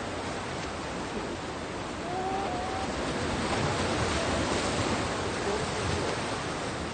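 Sea waves washing on the shore: a steady rushing noise that swells a little about two seconds in.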